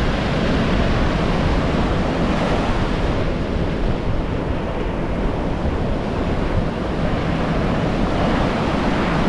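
Steady rush of sea surf and waves, with wind buffeting the microphone.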